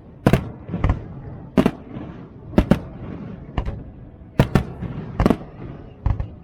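Fireworks going off in a display: about a dozen sharp bangs at uneven intervals, some in quick pairs, over a continuous low rumble of further bursts.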